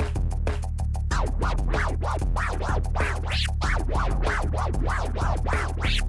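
Baby scratches on a turntable, the record pushed forward and pulled back under the needle in a steady rhythm of about three strokes a second, each stroke a rising-then-falling sweep. They start about a second in over a looping electronic backing beat.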